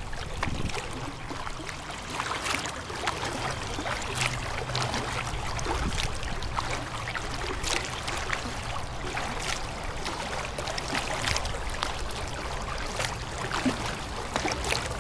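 Kayak paddling: the paddle blades dipping and splashing, with water trickling and dripping off them, in an uneven series of strokes.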